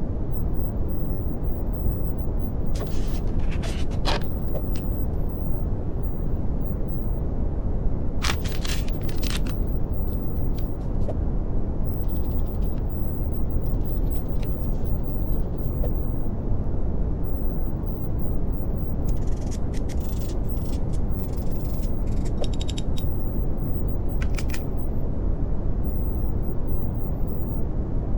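Steady brown noise: an even, deep rumbling hiss. Faint, brief high crackly flickers sound over it a few times, about three, eight and twenty seconds in.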